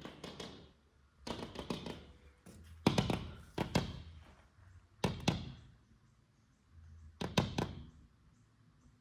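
A bird knocking and pecking at window glass in bursts of rapid taps and thunks, about five bursts spread over several seconds: it is attacking its own reflection in a mirrored window.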